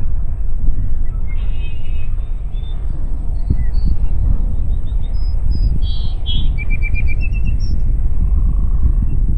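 Wind buffeting the microphone as a steady low rumble, the loudest sound, with small birds chirping over it: a series of short high chirps from about a second in, ending in a quick trill around the seventh second.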